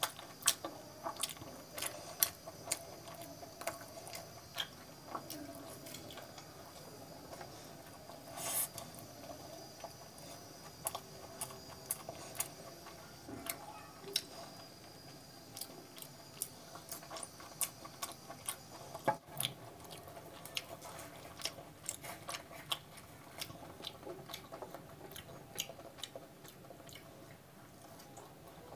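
Close-miked chewing and wet mouth sounds of a person eating a curried boiled egg and puri with her fingers: many sharp, irregular smacks and clicks, several a second.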